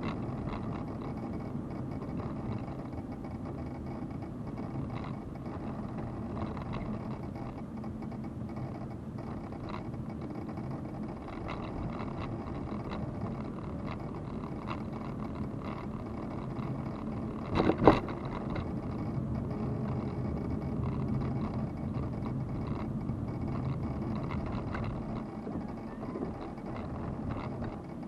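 Car on the move: steady engine and road noise with a low hum, and a single sharp knock a little past the middle.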